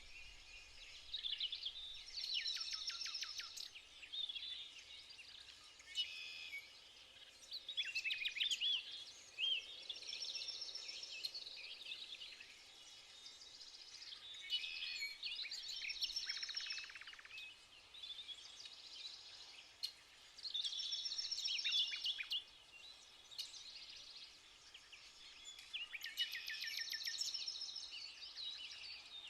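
Songbirds singing: a loud trilled, whistled song phrase comes back about every six seconds, with other birds' chirps and twitters in between.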